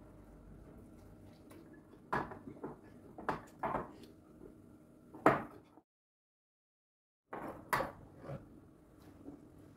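A series of short knocks and clatters from household objects being handled in a kitchen, a few strokes at a time, broken by a sudden silent gap of about a second and a half in the middle.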